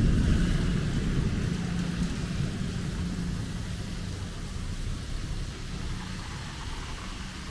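Rain hissing down on a city street with traffic. A deep low rumble is loudest at the start and fades over the next few seconds, under a steady low hum.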